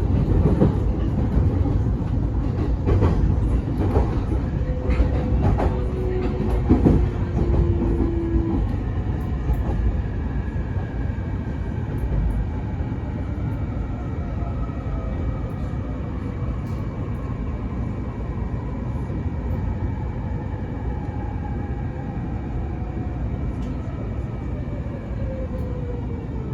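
Electric commuter train running on the Mito Line, heard from on board: steady rumble of wheels on rail with a few joint clicks in the first seconds. From about ten seconds in, the motor whine falls slowly and steadily in pitch as the train slows.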